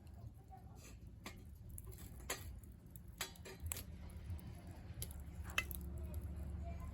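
Firewood burning in a wood stove, crackling with sharp, irregular pops over a low rumble that swells in the second half.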